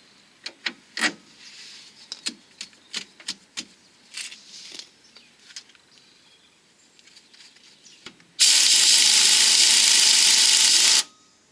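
A run of light metallic clinks from tools and parts being handled, then a power tool running at a steady pitch for about two and a half seconds, starting and stopping abruptly, as the track rod end is fitted.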